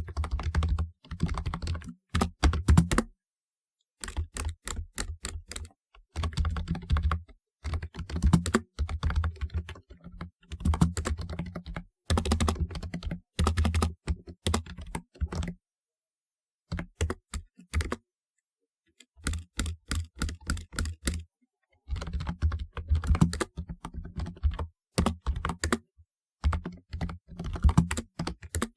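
Typing on a typewriter-style computer keyboard with round keycaps, fast clicky keystrokes in runs of a second or two broken by short pauses, each keystroke with a deep thock under the click.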